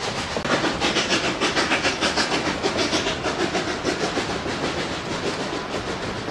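Narrow-gauge steam locomotive working upgrade, its exhaust chuffing in an even rhythm of about four beats a second, loudest in the first few seconds and easing after that.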